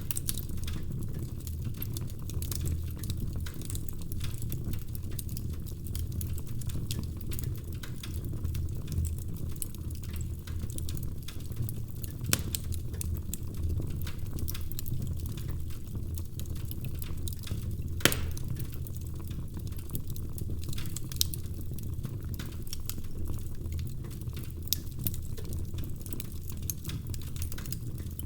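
Wood fire burning in a fireplace: a steady low rumble of flames with continuous fine crackling, and occasional louder pops from the logs, the sharpest about eighteen seconds in.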